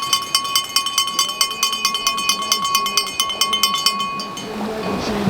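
A metal bell, cowbell-like, rung rapidly at about eight strikes a second, each strike ringing on one clear tone; the ringing stops about four seconds in.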